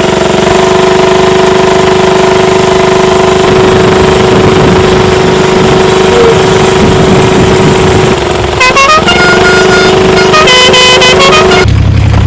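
A horn-like tone held for about eight seconds over a running diesel engine. Near the end come several shorter horn notes that step up and down in pitch.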